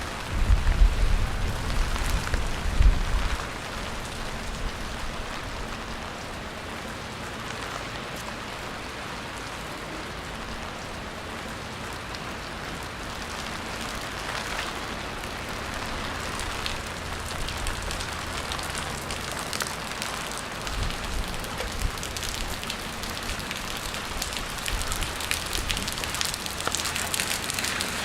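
Steady rain falling on a wet street, a continuous hiss broken by scattered sharp drop ticks that grow busier toward the end. A loud low rumble runs through the first three seconds or so.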